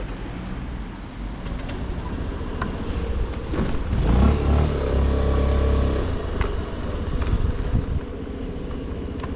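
Scooter engine running at a steady idle. About four seconds in, a louder engine sound swells and holds for roughly two seconds before dropping back.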